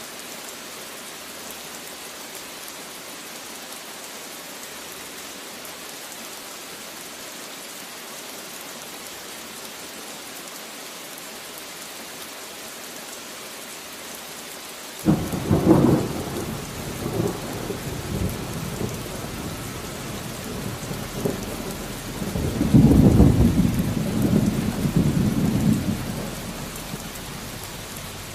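Steady rain falling, then about halfway through a sudden thunderclap that rumbles on for several seconds, swells into a second loud roll, and fades away near the end.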